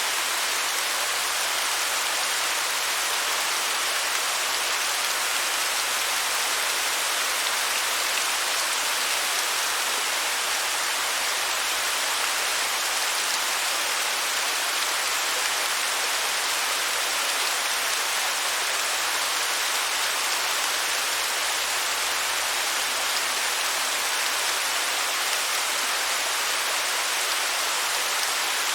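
Waterfall: a steady, unbroken hiss of falling water, mostly high in pitch with little deep rumble.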